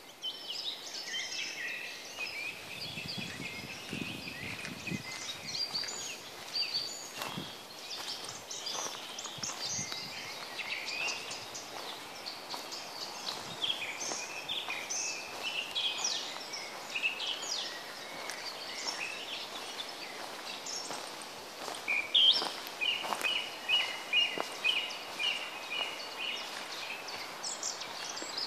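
Several woodland songbirds singing and calling over each other in a spruce forest, with many short high chirps and phrases. About two-thirds of the way through, one bird sings a louder run of quick repeated notes.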